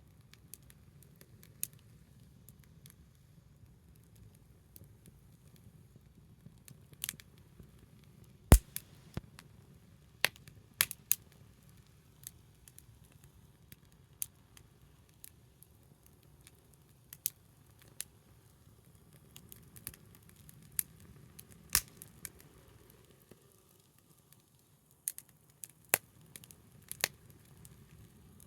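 Small wood fire crackling: sharp, irregular pops and snaps, the loudest about eight and a half seconds in, over a faint low steady rumble.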